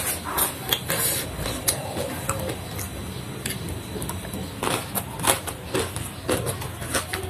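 A person eating by hand close to the microphone: irregular crunchy chewing, wet mouth clicks and smacks, several a second, as she takes in and chews a handful of rice with sambal and raw jengkol.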